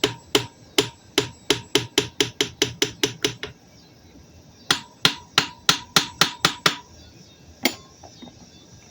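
Hammer tapping lightly and rapidly on a Mercury 140 outboard powerhead to split the crankcase halves, about four to five taps a second. There are two runs of taps with a pause between, then a single tap near the end, with a faint metallic ring under the taps.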